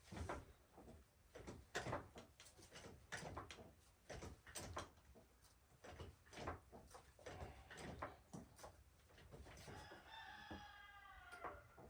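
A rooster crowing once near the end, one call falling in pitch, over faint scattered clicks and knocks.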